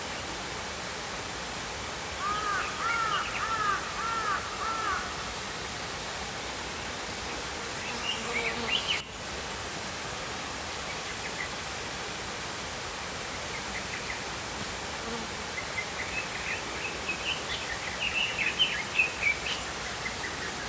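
Small stream flowing steadily while small songbirds chirp over it: a run of about six repeated arching notes early on, a few short chirps midway, and rapid twittering near the end. A faint steady high hiss runs underneath.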